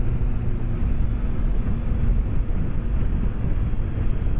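BMW K1200S inline-four engine running at a steady cruise, mixed with wind noise, as heard through a microphone inside the rider's helmet.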